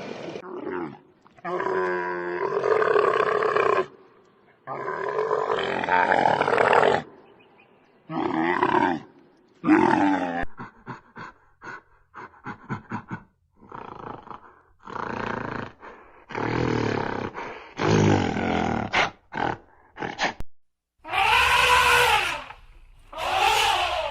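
A string of loud animal calls, roars and grunts, each a second or two long, with a run of rapid short pulses partway through.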